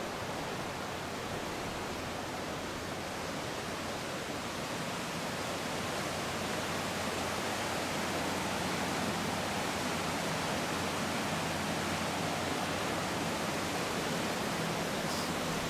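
Floodwater of a swollen creek rushing past in a steady, unbroken rush.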